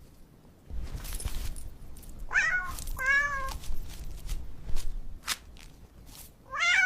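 Domestic cat meowing three times: two short meows in quick succession a little past two seconds in, and another near the end, over a low rumble.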